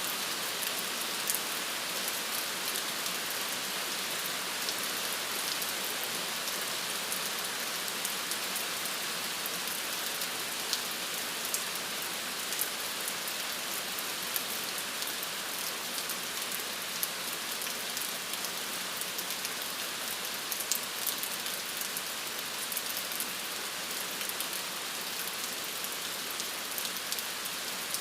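Steady rain falling, a constant hiss with many small scattered drop ticks.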